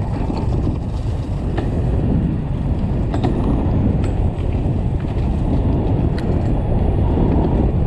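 Wind rushing over a helmet-mounted microphone and tyre noise from an electric dirt bike riding fast on a dirt trail, with a few light clicks and rattles.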